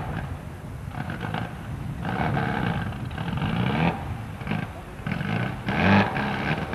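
Rally car engine revving in repeated rises and falls, the car stopped sideways across a gravel road.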